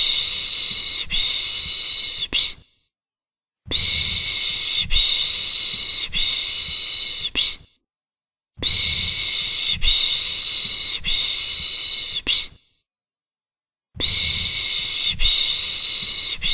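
A person making the Turkish 'pış pış' shushing sound used to soothe a baby: a steady hiss broken by short dips into three or four strokes. Each phrase lasts about four seconds and the same loop repeats about every five seconds, with a second of silence between.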